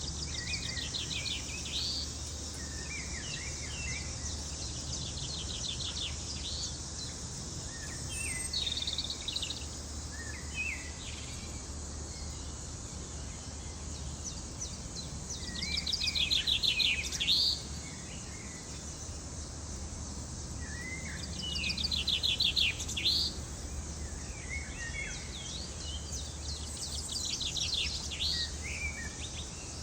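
A bird singing short phrases of fast trills and rising chirps, repeated every few seconds, over a steady high insect drone and a low hum.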